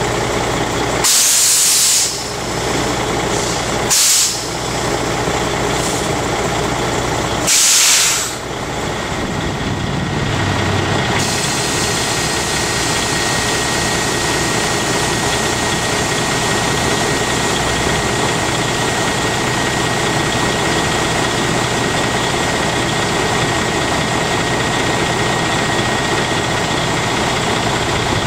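Air brake system of a 2005 Freightliner M2 letting out three short hisses of compressed air, about a second, four seconds and eight seconds in. The truck's diesel engine idles steadily throughout.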